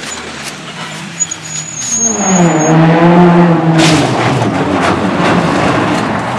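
Race car engine revving up and passing close, rising in pitch and loudest about three seconds in, then dropping away.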